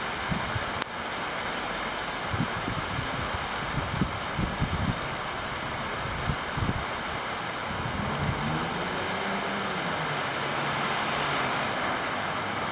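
Heavy rain pouring down in a steady hiss, with low rumbles and, around two-thirds through, a motor vehicle's engine hum rising and falling as it passes.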